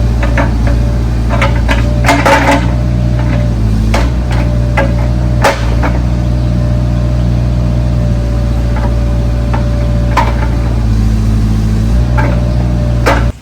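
2002 Bobcat compact excavator's diesel engine running steadily, with repeated sharp metallic clanks and knocks from the machine moving. The engine note changes slightly around 4 s and again near 12 s, and the sound cuts off suddenly at the very end.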